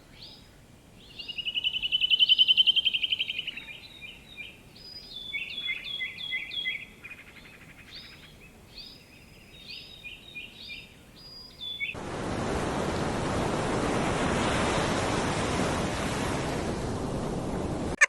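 Bird calls: many short, repeated high chirps, with one loud trill about a second in. About twelve seconds in, the chirps stop and a steady rushing noise takes over.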